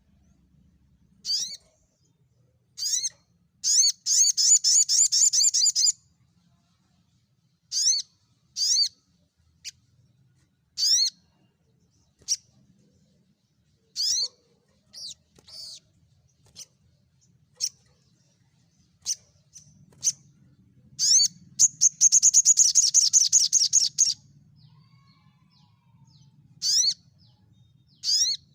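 Sunbird songs from a mangrove sunbird compilation: sharp, high, down-slurred chips at irregular gaps. There are two long, very fast, loud trills, one about four seconds in and one about twenty-one seconds in.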